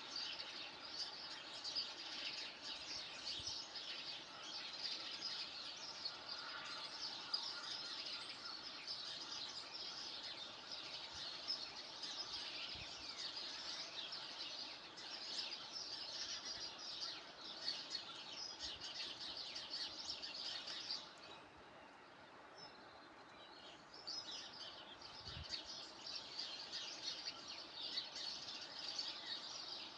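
Many small birds chirping and twittering together in a dense, continuous chorus. It thins out and drops for a few seconds about two-thirds of the way through, then picks up again.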